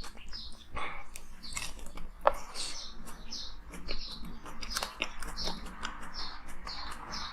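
Close-up chewing and crunching of frozen ice, with sharp, irregular cracks as the pieces break between the teeth. A bird chirps about twice a second in the background.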